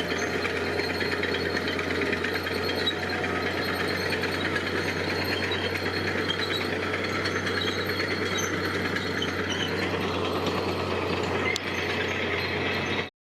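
Diesel engine of heavy construction machinery running steadily under work, with a fast, even clattering rattle over a low hum.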